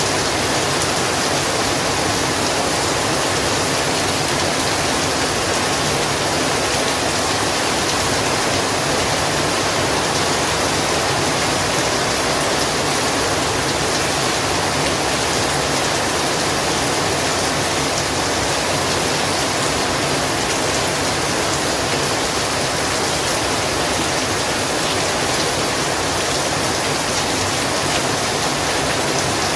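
Heavy rain falling, a dense, steady hiss with no break or change.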